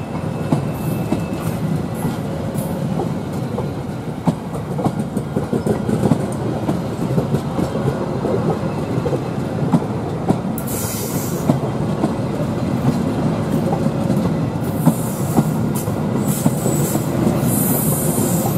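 Stainless-steel executive-class passenger coaches rolling past close by: a steady rumble of wheels on rail with frequent sharp clicks over the rail joints. There are short bursts of high-pitched hiss about ten seconds in and again near the end.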